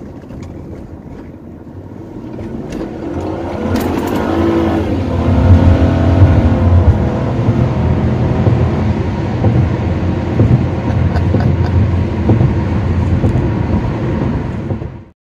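2003 Honda Accord's 3.0-litre V6 engine accelerating, its note rising in pitch a few seconds in, then running steadily at speed with a deep drone; running really good on fresh synthetic oil. The sound cuts off suddenly near the end.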